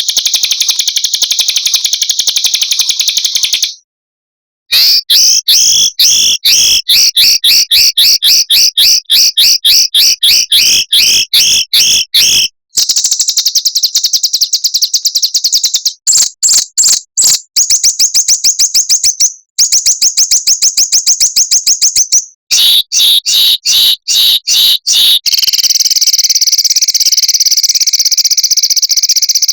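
Recorded small songbirds singing fast, high-pitched trills and rapid runs of sharp repeated notes, the 'roll' and 'tembakan' phrases used as masteran training song. The song stops abruptly several times between segments.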